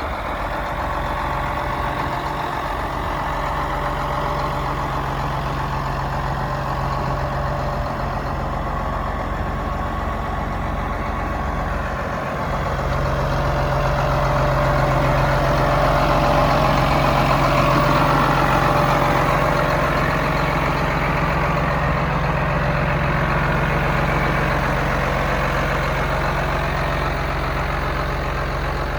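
John Deere 8400T track tractor's six-cylinder diesel engine running steadily, growing louder about halfway through and easing off slightly again.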